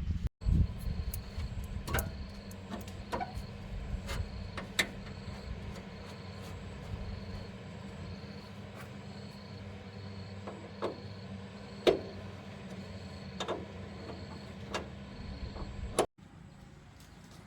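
Scattered light knocks and clicks, about a dozen and the loudest near the middle, over a steady hum.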